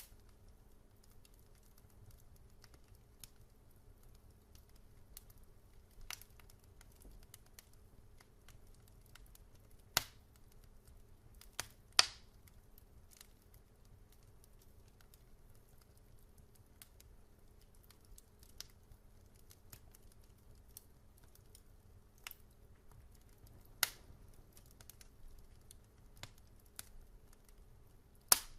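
Wood fire in a fireplace crackling: sparse sharp pops and snaps a second or several seconds apart, a few of them much louder, over a faint low steady background.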